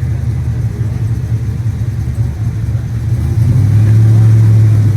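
340 Dodge Duster's V8 engine idling with a deep, steady rumble, getting louder about three and a half seconds in as it is revved slightly or moves closer.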